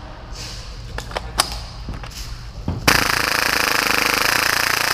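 A few sharp clicks, then about three seconds in a full-auto Tokyo Marui Hi-Capa airsoft pistol, converted to about 30 rounds a second, opens up in one long, even burst of rapid-fire shots.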